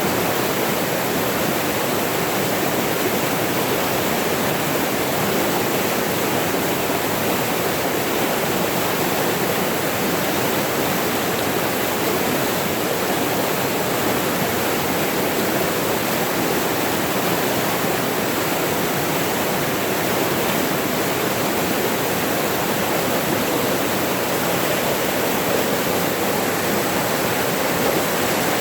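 Mountain stream or small waterfall rushing steadily, a constant loud hiss of water with no change.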